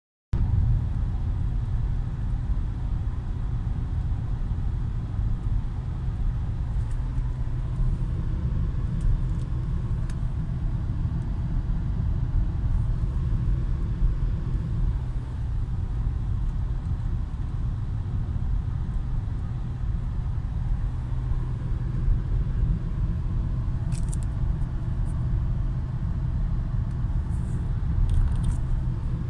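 Volvo S60 D5 five-cylinder 2.4-litre turbodiesel car cruising steadily at about 70 km/h, heard from inside the cabin: a steady low drone of engine and road noise. A few faint ticks near the end.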